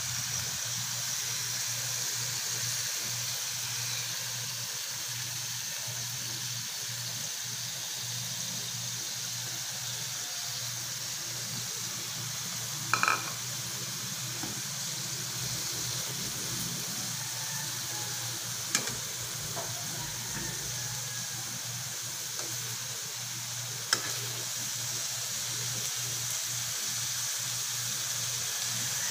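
Sliced bitter melon and ground meat sizzling steadily in a hot pan as they sauté, with a few short knocks, the loudest about 13 seconds in.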